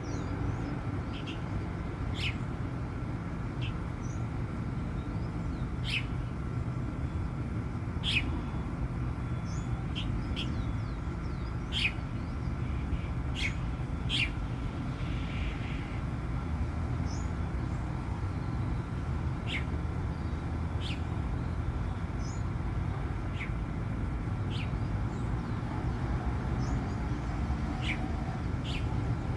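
Chalk-browed mockingbird calling: short, sharp notes at irregular intervals, about one every second or two, over a steady low hum.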